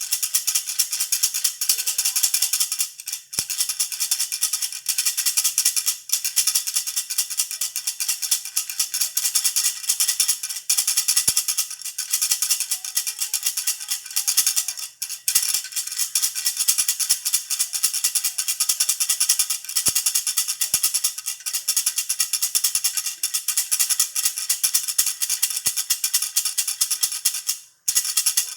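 Baby rattle (jhunjhuna) shaken rapidly and continuously: a dense, bright rattling, broken only by very brief pauses about three seconds in, around the middle and near the end.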